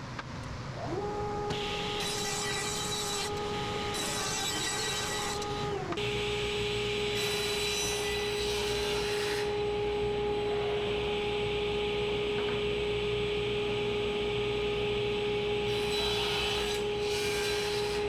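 Table saw with its blade tilted to 45 degrees, running with a steady whine that comes in about a second in. It is cutting white oak in several stretches of louder, rasping cutting noise.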